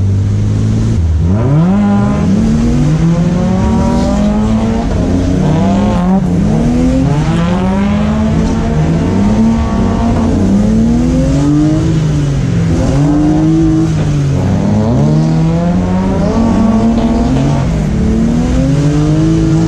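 BMW E36's engine held low for about a second, then revved up and down over and over during a drift, each climb and fall lasting a second or two. It is heard from inside the windowless cabin.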